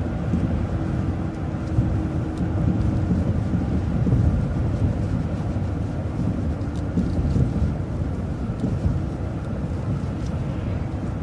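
Interior noise of an MCO ViewMaster bus under way: a steady low rumble of engine and road, with faint light rattles.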